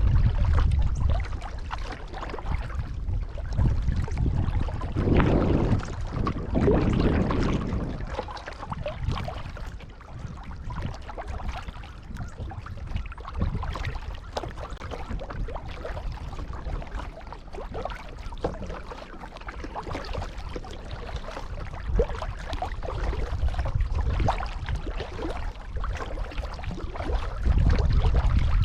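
Kayak paddle strokes in calm water: the blades dip and water drips and trickles off the paddle. A low wind rumble on the microphone is heard at the start and again near the end.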